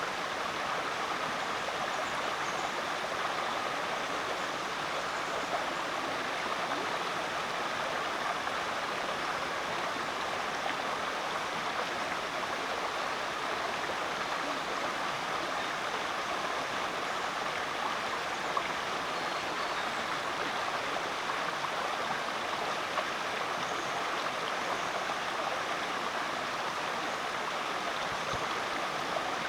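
Rainforest creek flowing over rocks, a steady rush and babble of water.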